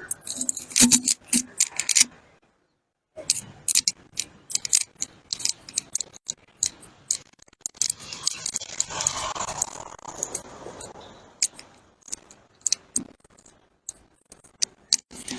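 Footsteps and camera handling while walking: a run of sharp, irregular taps and clicks, several a second, broken by a second-long dead gap about two seconds in.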